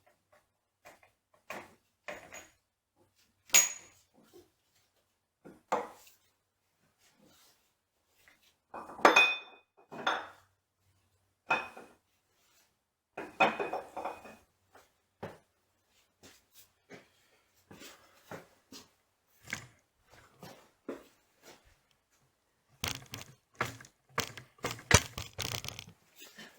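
Steel gears and a shaft being worked loose by hand from a milling machine's gearbox: scattered metallic clinks and knocks, a few with a short ringing tone, then a quicker run of clattering near the end.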